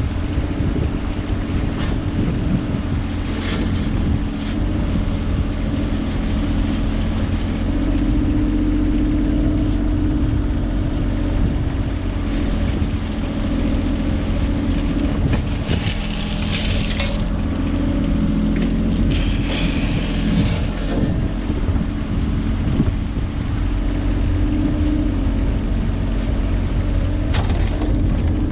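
An engine running steadily throughout, with a few brief rasping noises over it.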